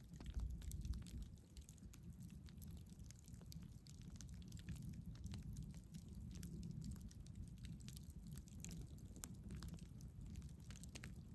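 Campfire crackling: many small, irregular pops and snaps of burning wood over a steady low rumble.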